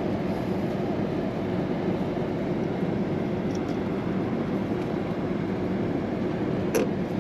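Rooftop air-conditioning equipment running with a steady mechanical hum and rush of air, with a light click near the end.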